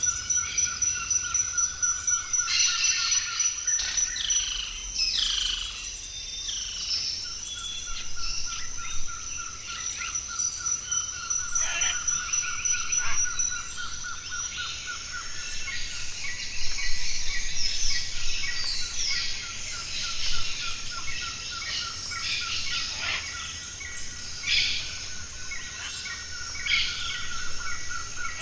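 Tropical forest chorus of several birds calling and chirping, over a continuous rapid trill held at two steady pitches, one middling and one very high.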